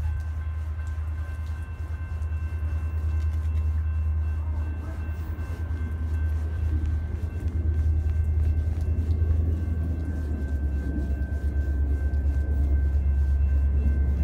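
Diesel train approaching from a distance: a steady low rumble that swells over the second half, with faint steady high-pitched tones above it.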